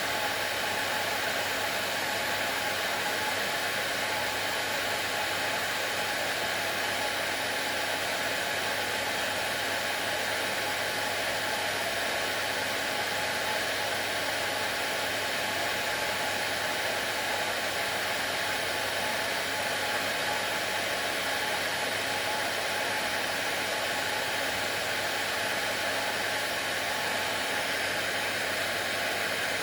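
Hair dryer running continuously at a steady setting: an unchanging rush of blown air with a faint steady motor hum under it.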